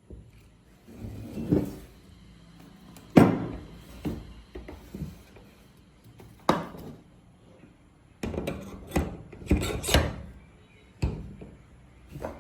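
Router kit parts being handled and set down on a hard surface: a series of sharp knocks and clunks with rubbing and scraping in between, several knocks coming close together near the end.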